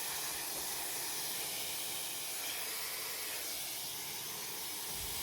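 Handheld hair dryer blowing steadily on its high fan setting: a constant airy whoosh.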